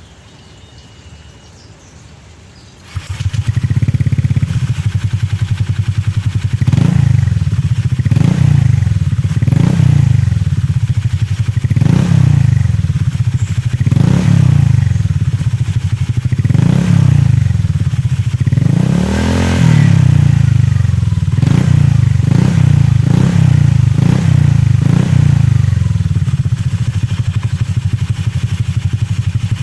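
2017 Honda Click 125 scooter's single-cylinder engine through an aftermarket Akrapovic exhaust with its silencer insert removed: it starts about three seconds in, then idles with a series of quick throttle blips, one longer rev about two-thirds of the way through, and settles back to idle near the end.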